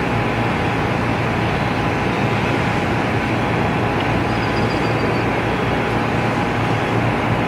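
Jet airliner engines running with a steady loud rumble, with a faint high whine briefly in the middle.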